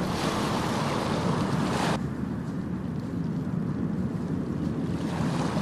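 Ocean surf: a wave washes in with a bright hiss that cuts off abruptly about two seconds in, leaving a steady low rumble of the sea.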